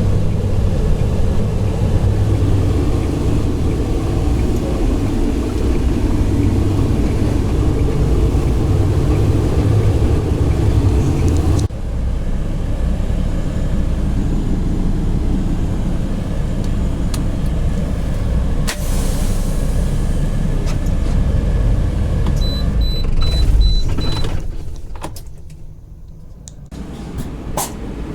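Semi truck running: a steady low engine and road rumble. It changes abruptly about twelve seconds in and drops away for a few seconds near the end. Shortly before that drop there is a quick row of faint high beeps.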